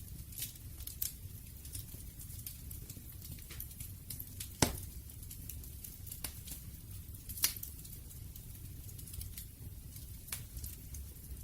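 Campfire burning: a low rumble of the flames under scattered sharp crackles and pops of burning wood, with two louder pops, about halfway through and a little later.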